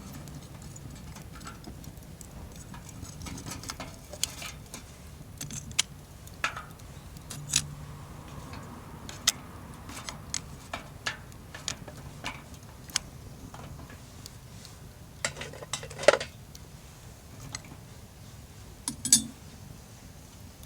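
Irregular light metal clinks and knocks of camp cookware and utensils being handled, about a dozen scattered ones with two louder clanks near the end, over a low steady hum.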